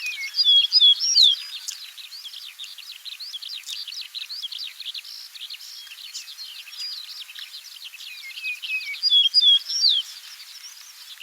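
Many small songbirds chirping at once, a dense chorus of quick, high chirps. A louder phrase of swooping notes stands out about half a second in and comes again about nine seconds in.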